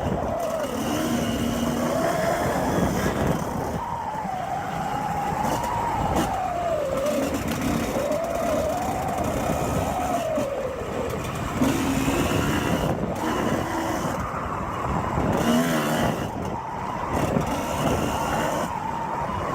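Suzuki RM 125 two-stroke dirt bike engine being ridden, revving up and dropping back again and again as the throttle opens and closes.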